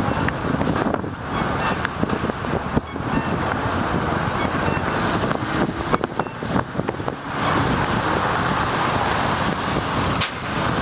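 Traffic noise heard from a bicycle in the rain: cars hissing past on wet pavement and wind on the microphone, with scattered clicks and knocks. About seven seconds in, a steadier, louder hiss sets in.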